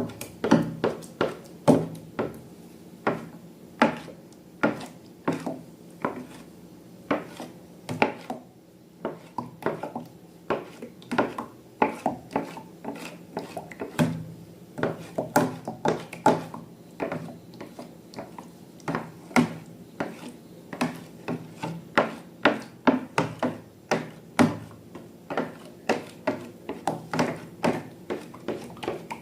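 Repeated sharp clicks and knocks, irregular, about one to two a second, with faint rubbing between them: tools and containers handled while making slime.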